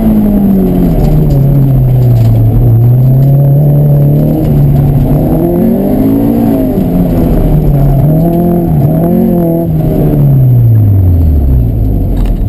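Honda CRX's B16 DOHC VTEC inline-four running hard, heard from inside the cabin: the revs dip, climb and waver with the throttle through the turns, then fall steadily over the last couple of seconds as the car slows.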